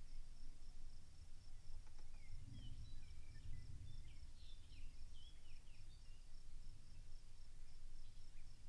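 Rural outdoor ambience: an insect trills steadily in a high, pulsing tone, and a small bird chirps a quick run of notes from about two to five seconds in, over a low rumble of wind on the microphone.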